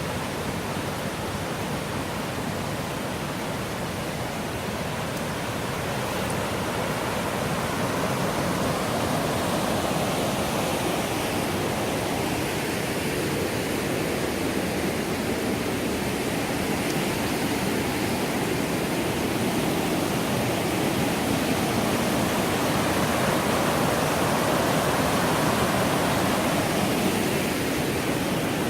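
Millstone River's water rushing steadily, a dense, even hiss that grows a little louder after several seconds.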